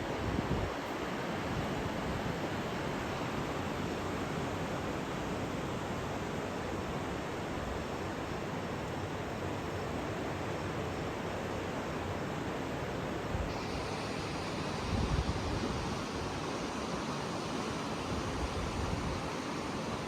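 Typhoon storm outdoors: a steady rushing noise of wind and weather, with gusts buffeting the microphone near the start and again about three-quarters of the way through. The hiss changes abruptly partway through.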